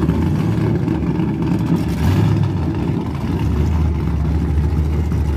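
Truck engine running with a deep, steady rumble, swelling briefly about two seconds in and again from just past the middle.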